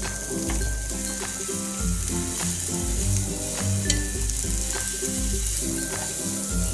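Meat and mushroom slices sizzling steadily on a tabletop grill pan, with a few light ticks from chopsticks. Under it runs a low, repeating musical bass line.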